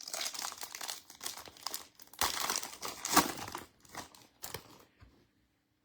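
Foil wrapper of a football trading-card pack crinkling as it is torn open and pulled off the cards, with a few sharper rips. It dies away about five seconds in.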